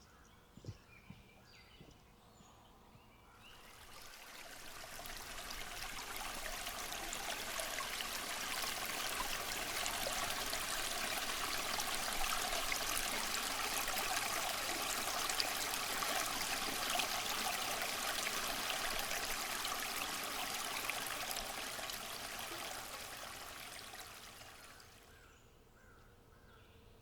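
Rushing stream water, a steady hiss that swells in a few seconds in, holds, and fades out near the end. Faint bird chirps before the water sound rises.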